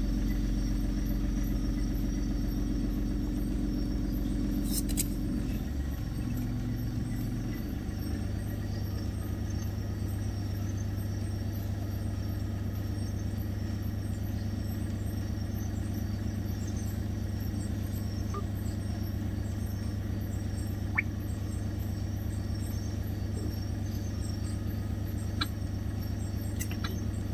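Vehicle engine idling steadily, with a low, even hum that shifts in pitch once about six to eight seconds in.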